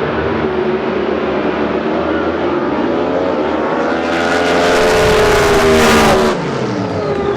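Racing drag boat's engine running hard, its pitch climbing slowly. It is loudest and harshest about four to six seconds in, then drops off suddenly.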